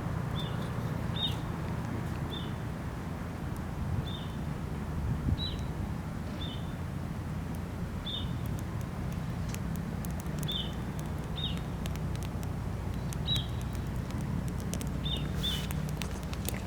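A small bird repeating a short, high, falling chirp about once a second, over a low steady rumble and faint crackles from a wood fire.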